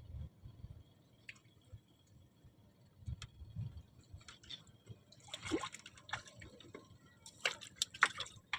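Water splashing and dripping in short clusters, with a couple of soft low knocks before them.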